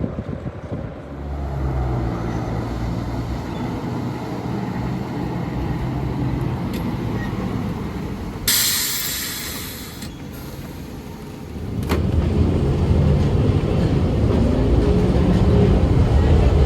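Heritage electric tram running with a steady low motor hum. About halfway through comes a short, loud hiss of released air, then the rumble picks up again.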